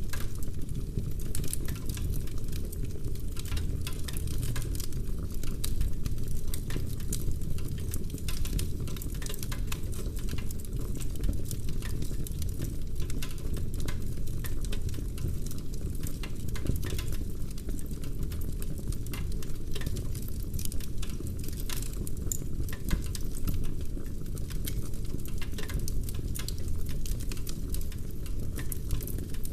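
Wood fire burning in a fireplace: a steady low rumble of flames under dense, irregular crackles and pops from the burning logs.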